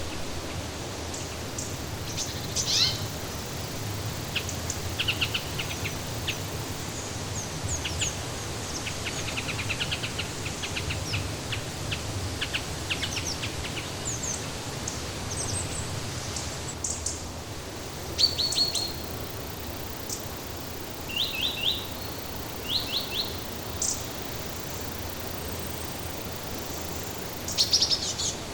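Small songbirds chirping and trilling over a steady rushing background noise. Short high chirps and quick trills come and go, with several fast chirp series in the second half and one more near the end.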